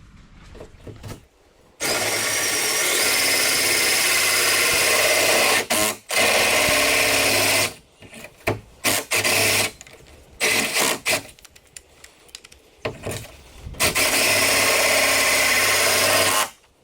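Cordless drill running into a carbon fiber hood to bore hood-pin holes, in several runs of a few seconds each with short bursts between them.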